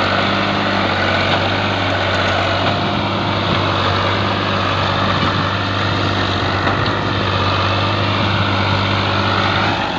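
Tractor diesel engine running steadily with an even, low hum.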